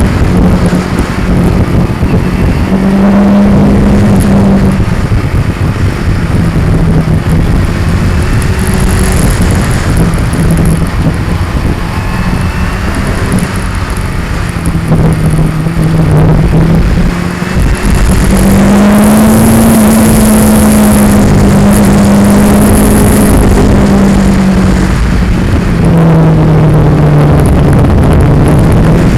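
2002 Yamaha R6's inline-four engine running on the move, its pitch rising and falling again and again as the throttle opens and closes. It is loud and overlaid by a heavy rumble from the action camera shaking on its mount.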